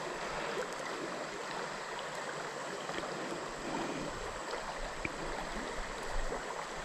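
Creek water running steadily, an even rushing with a few faint small ticks.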